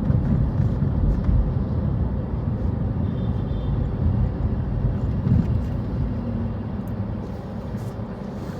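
Steady low rumble of road-vehicle noise.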